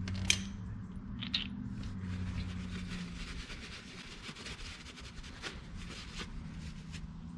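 Hand tools working bolts on the underside of a car: a few sharp clicks, then a long run of quick faint clicks and rattles, over a steady low hum.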